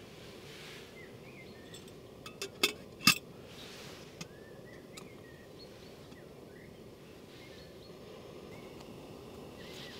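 A few sharp clinks and knocks, in a quick cluster between two and three seconds in, the last the loudest, with one more a second later. Under them a steady outdoor background with faint short bird chirps.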